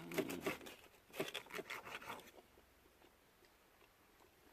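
Eating at a steak dinner: a run of short crackly rasps and clicks for about two seconds, then they stop.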